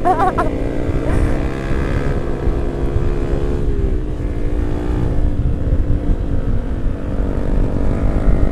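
Yamaha R15 V3 single-cylinder four-stroke motorcycle engine running while riding, over a steady low rumble. Its note drops slightly about three and a half seconds in as the revs ease off.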